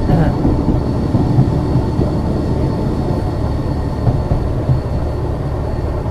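Ex-Liverpool Corporation tram 869 running along the track: a steady low rumble of wheels and running gear with occasional small knocks, and a faint steady high whine over it.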